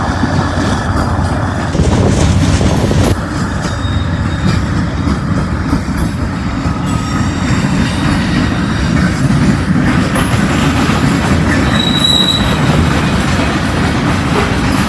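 Freight train cars rolling past close by: a steady, loud rumble of steel wheels on rail, with brief high wheel squeals, the clearest about twelve seconds in.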